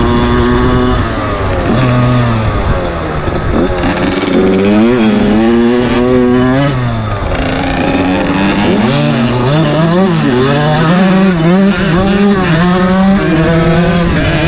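Small two-stroke motocross bike engine, a KX80/CR85-class dirt bike, revving up and down over and over as the throttle is worked on a trail ride, its pitch rising and dropping again every second or two.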